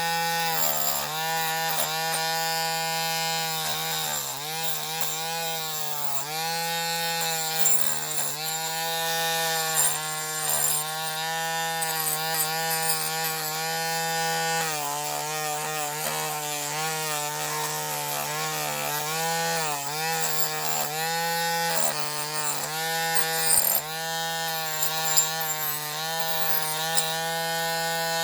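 Small electric rotary tool running with a wire brush scrubbing bare diecast metal, its motor pitch dipping again and again as the brush is pressed on and recovering as it lifts, over a scratchy scrubbing hiss.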